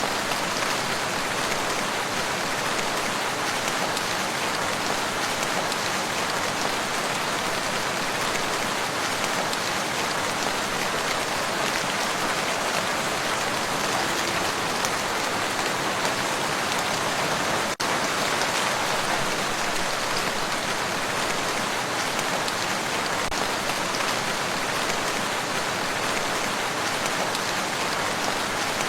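Steady, dense rain falling on a lake's surface, an even hiss of many drops.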